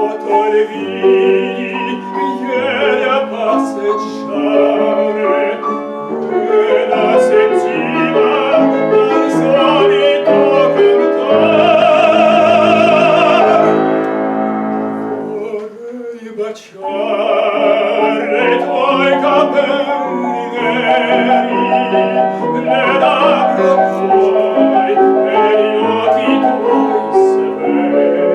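Classical singing with vibrato, accompanied on the piano, with one long held note near the middle and a brief pause soon after.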